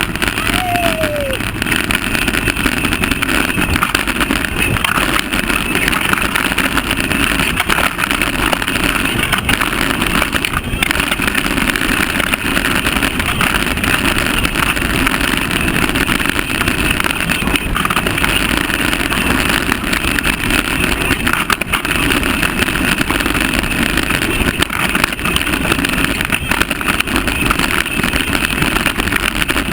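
Mountain bike riding fast down a dirt trail: a steady rush of wind on the mic, tyre and chassis noise, with a short falling squeak about a second in.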